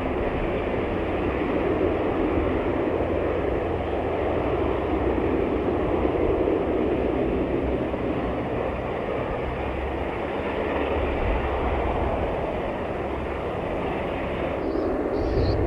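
Aircraft engines running with a steady rushing noise and a low rumble underneath. Near the end, a quick run of high chirps starts.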